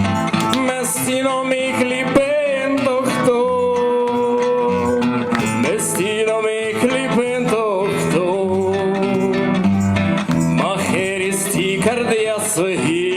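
Live acoustic music: acoustic guitar playing under a held melody line with vibrato, in a passage without lyrics between sung verses.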